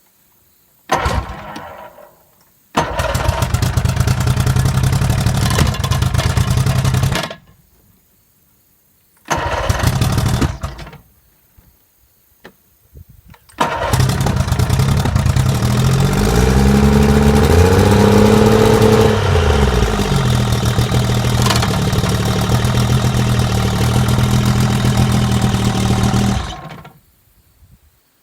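Chrysler 70 hp two-stroke outboard motor being started several times. It catches briefly about a second in, runs for about four seconds and dies, catches again briefly near the middle, then starts and runs for about thirteen seconds, revving up and back down once before it is shut off.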